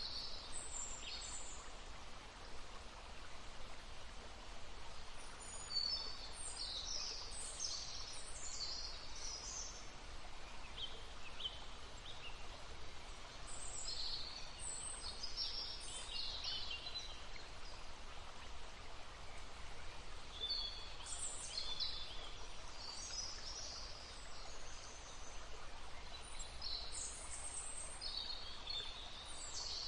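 Songbirds singing in bouts of quick, high chirps over the steady rush of a stream.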